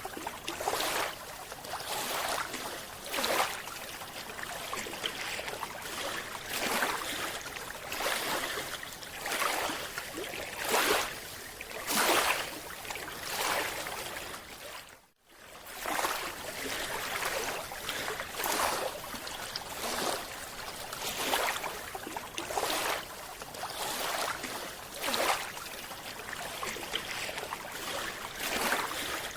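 Underwater water noise: a rushing, bubbling hiss that swells and fades every second or two, with a brief dropout about halfway through.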